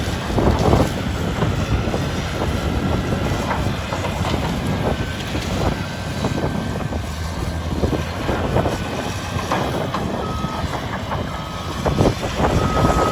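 Caterpillar 325D excavator's diesel engine running steadily, with irregular sharp cracks and knocks throughout and a thin steady whine that comes and goes in the second half.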